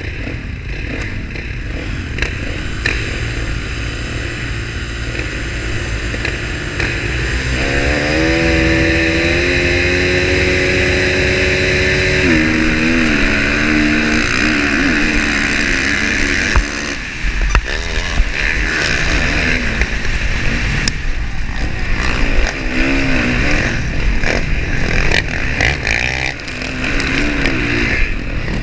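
Motocross bikes' engines running hard, pitch climbing about eight seconds in, holding, dropping suddenly about four seconds later, then rising and falling as the throttle is worked.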